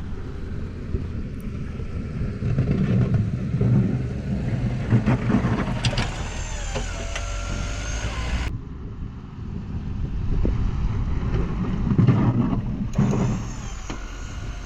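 Pickup truck with a snowplow blade pushing snow: its engine runs and swells twice under load, with brief high-pitched squeals over it.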